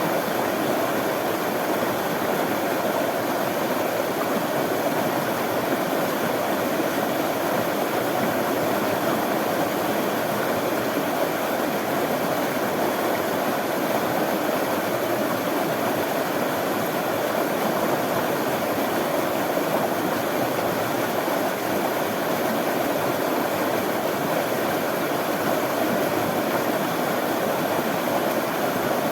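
Running water flowing steadily, an even rushing with no breaks.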